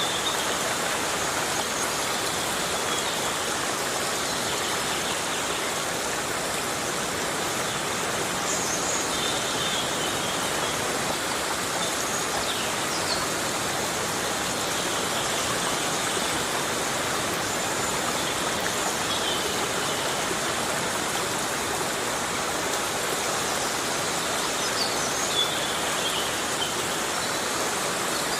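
Heavy rain falling steadily on a rainforest, an even hiss with no break, with a few short high chirps now and then.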